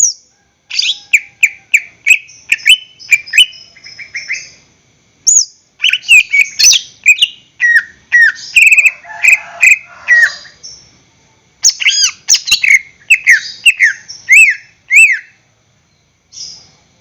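Greater green leafbird (cucak ijo) singing loudly in full voice. It gives three long bursts of quick whistled notes, many slurring downward, mixed with sharp chips and separated by short pauses, then one short note near the end.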